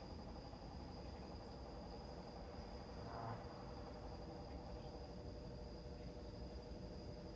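Crickets trilling steadily in a night insect chorus, high-pitched and even, over a faint low continuous rumble. One brief louder call stands out about three seconds in.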